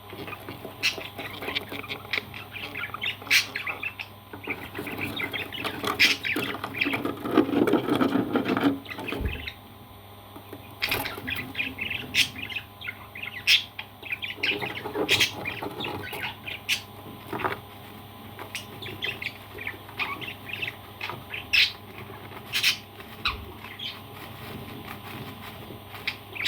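Parrot squawking in short, sharp calls scattered throughout, with a louder, lower stretch about seven to eight seconds in.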